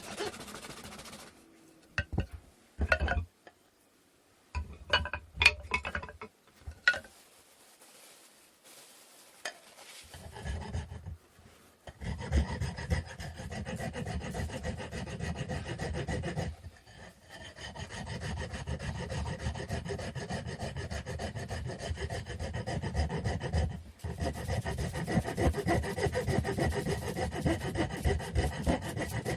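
A few scattered knocks and taps of wood being handled, then from about twelve seconds in, continuous rapid rasping strokes of hand-tool work on a wooden stick, breaking off briefly twice.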